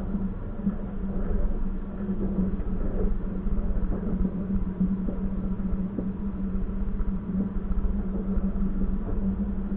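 Passenger train running along the rails, heard from inside the carriage: a steady low rumble and hum with a few light knocks.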